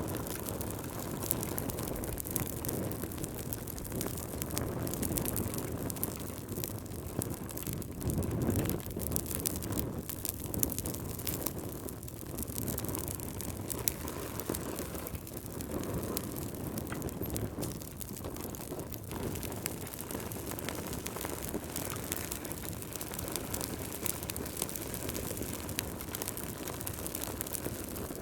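Wood fire crackling in a fireplace, with many small pops, over wind that gusts and swells every few seconds.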